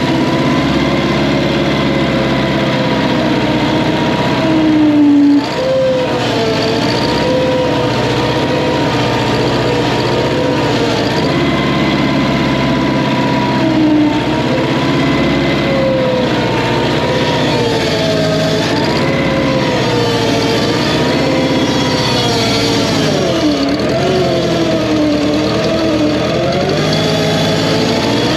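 Wisconsin 30 hp engine of a Massey Ferguson 771 skid steer running continuously, its speed wavering up and down and sagging briefly a few times.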